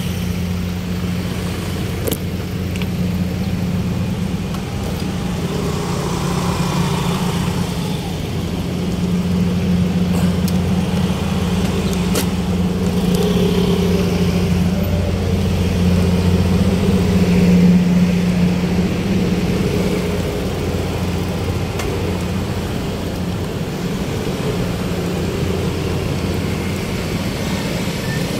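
An engine running steadily at a constant low hum, with no change of speed, swelling slightly in loudness partway through.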